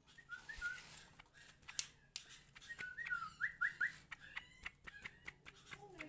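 Small songbird giving short whistled chirps: a brief phrase about half a second in, then a run of quick whistle notes ending in four fast rising strokes about three and a half seconds in, with scattered sharp clicks between.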